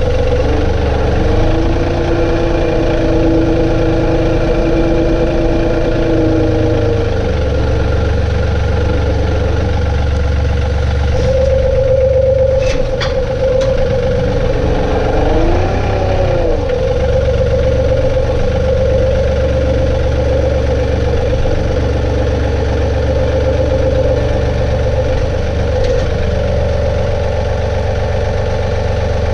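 John Deere 2032R compact tractor's three-cylinder diesel engine running steadily. About halfway through, a whining tone rises and falls briefly, just after a couple of sharp clicks.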